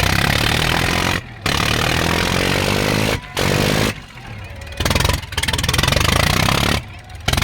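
Tractor diesel engines running hard, pulling against each other in a tug-of-war, with a rapid firing beat; the sound cuts out abruptly for short moments several times.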